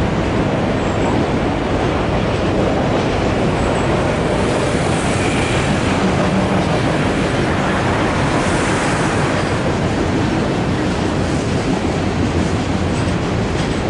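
Freight train of empty autorack cars rolling past: steady noise of steel wheels on the rails, with a few faint clicks near the end.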